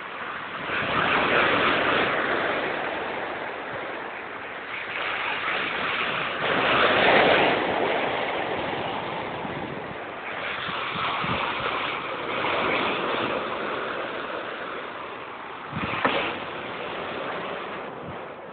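Big waves crashing in successive surges, a continuous rushing noise that swells and ebbs every few seconds. A sharp knock sounds near the end.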